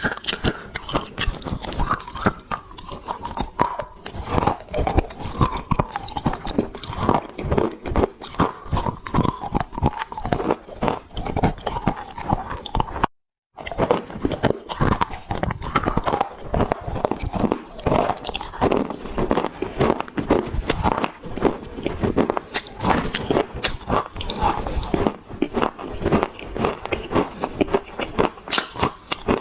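Close-miked crunching of dry clay being bitten and chewed: a dense, continuous crackle of small crunches. The sound cuts out completely for a moment about halfway through.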